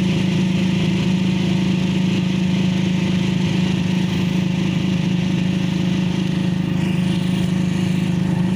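Motorcycle engine of a sidecar tricycle running at a steady cruising pace, a constant drone heard from the passenger compartment, with road noise.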